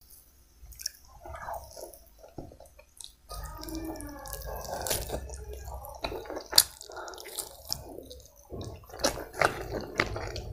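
Close-miked eating sounds: wet chewing and lip smacks of a mouthful of chicken biryani eaten by hand, with many short sharp mouth clicks.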